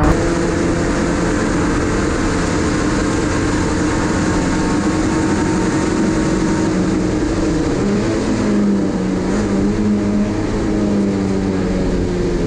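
Supercharged 4A-GZE four-cylinder engine of a Toyota AE101 Corolla Levin race car running hard along a straight, heard from inside the car under heavy road and tyre noise. About two-thirds of the way through, the engine note drops and stays lower as the revs come down.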